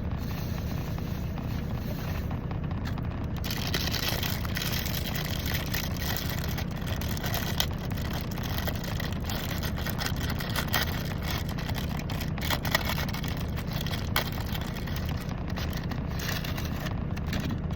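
Steady low rumble of an idling semi truck, with a few small clicks and rustles of a package being handled.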